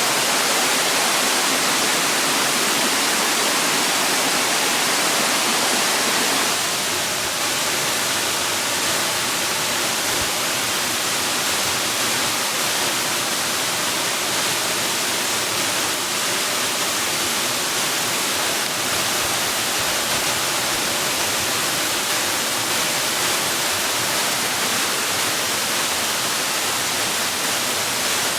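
Steady rushing water, a dense, even hiss like a waterfall. About six seconds in it turns slightly softer and less hissy, then runs on evenly.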